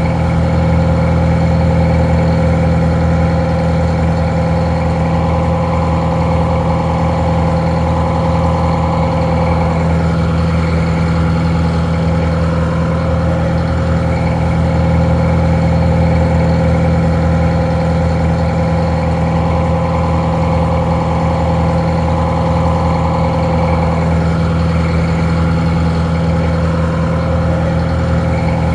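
Detroit Diesel 4-71 two-stroke diesel engine idling steadily, with a deep, even drone.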